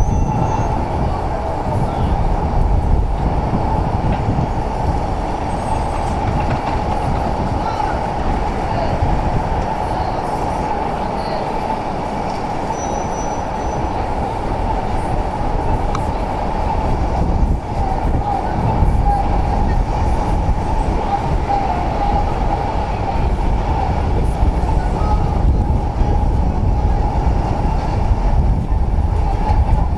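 Steady low rumble of downtown street noise, loud and unbroken, with its weight in the low end.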